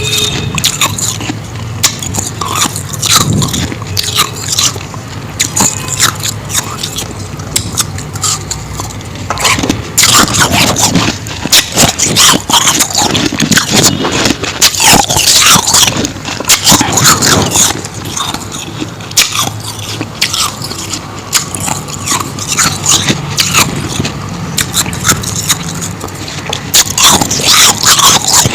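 A person biting and chewing powdery ice: a dense run of quick crunches and crackles.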